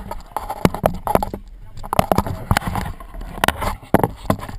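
Irregular knocks, scuffs and rustling, with indistinct voices underneath.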